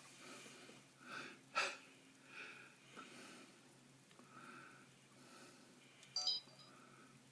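Faint breathing close to the microphone, with a sharp click about a second and a half in and a brief high-pitched chirp about six seconds in.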